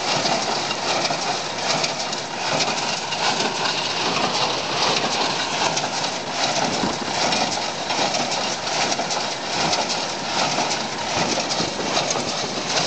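Landini Blizzard 95 tractor running with a New Holland 270 small square baler working behind it: a steady, dense mechanical clatter.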